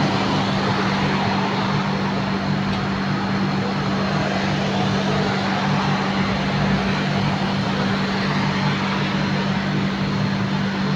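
Steady engine noise with a constant low hum, unchanging in loudness throughout.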